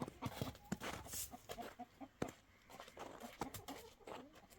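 Chickens clucking, with irregular sharp taps and clicks throughout.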